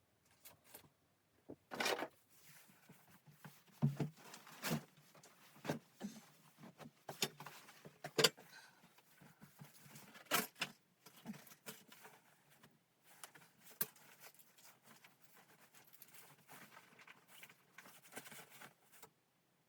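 Irregular clicks, knocks and rustling of objects being handled, with a few louder knocks among them.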